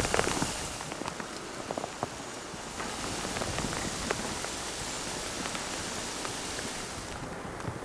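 Blizzard: a steady hiss of wind-driven snow with many small scattered ticks of frozen precipitation striking. The high hiss thins out briefly about a second in and again near the end.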